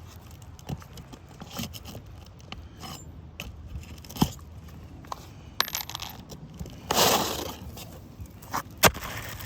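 Scattered clicks and taps from handling on an asphalt shingle roof, with a short scraping rasp about seven seconds in and a sharp knock near the end.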